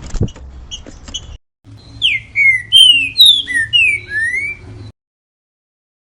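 Green-winged saltator (trinca-ferro) singing the 'grego mole boi' song: a few short chips in the first second or so, then about two seconds in a loud phrase of some seven clear whistled notes, most sliding down in pitch and the last sliding up.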